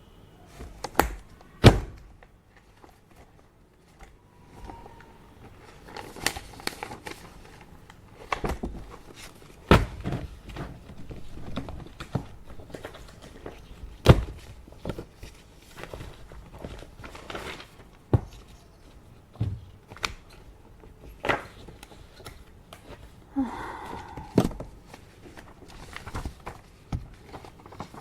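Things being handled and set down at an office desk: irregular thunks and sharp knocks every second or two, the loudest near 10 and 14 seconds in, with brief rustling between them. A faint steady hiss sits underneath.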